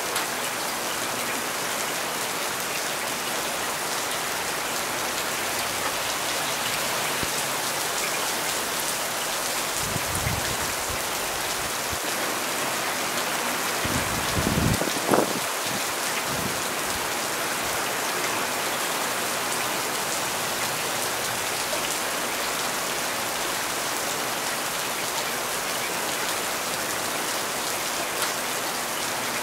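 Heavy rain falling steadily, an even hiss of drops. A low rumble swells briefly about ten seconds in, and a stronger one comes about halfway through, ending in a short thump.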